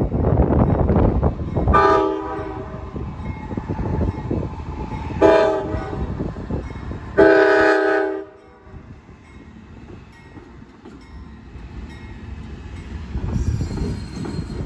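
Train horn sounding three blasts, the first and last about a second long and the middle one shorter, over the rumble of the passing train. Wind buffets the microphone, loudest in the first two seconds and again near the end.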